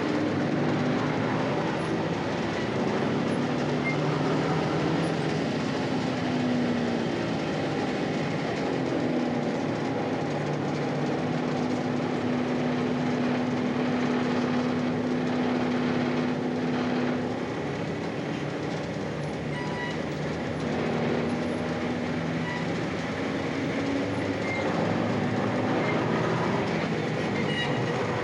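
Ikarus-260 city bus under way, heard from inside the cabin: the diesel engine's note rises and falls as the bus accelerates and changes gear, holds steady for a few seconds in the middle, and runs over a continuous rumble and rattle of the body.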